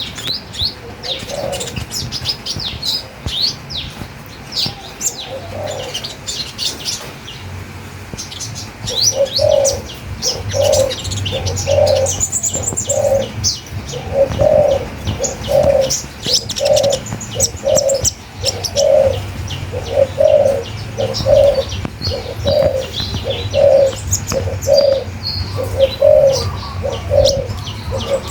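Birds singing: rapid high chirps and twitters throughout. From about nine seconds in they are joined by a low call repeated evenly, nearly twice a second.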